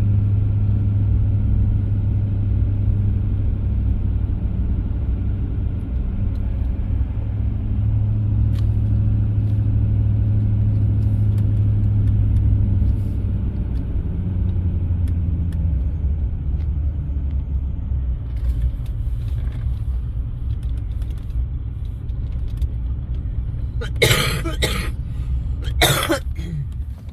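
Side-by-side UTV engine running with a steady low rumble, easing slightly about halfway through. Near the end come two short, loud bursts of noise.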